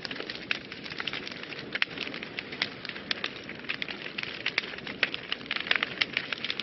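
Wood fire burning in a fireplace: steady hiss with frequent sharp, irregular crackles and pops, several a second.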